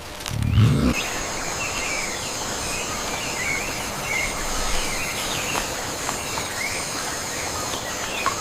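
Outdoor nature ambience: scattered bird chirps over a steady high insect drone. A brief low rumble comes about half a second in.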